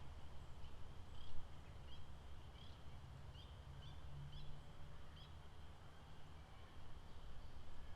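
Lakeside nature ambience: a run of about eight short, high chirps, roughly two a second, over a steady high-pitched drone and a low rumble.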